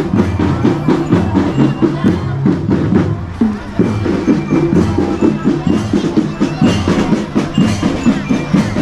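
School drum band playing: fast, steady drum strokes over a pitched melody line.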